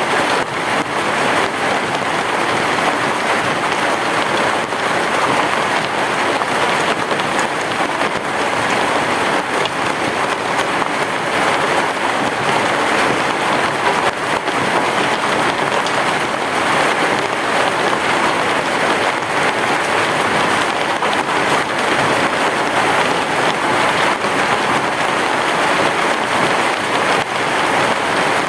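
Heavy rain falling steadily on a roof, a dense, even hiss of drops with no break.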